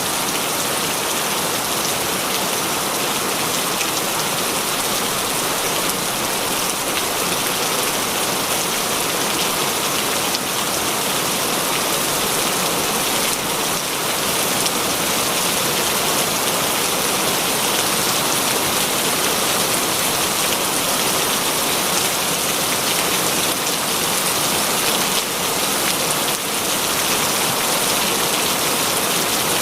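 Heavy rain falling steadily, an even hiss of countless drops hitting a surface.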